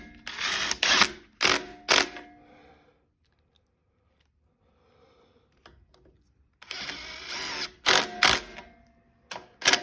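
Ratchet wrench working the carburetor mounting bolts on a rototiller. It runs in two short spells, near the start and about seven seconds in, each followed by a few sharp clicks, with a quiet gap of a few seconds between them.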